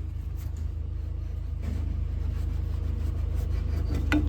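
Skid steer engine running steadily, a low drone that grows gradually louder, with a short metallic click near the end.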